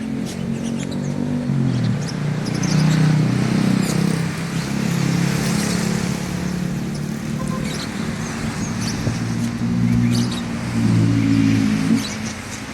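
Engines of road traffic running close by, their pitch shifting a few times, with many small caged birds chirping in short high bursts over them.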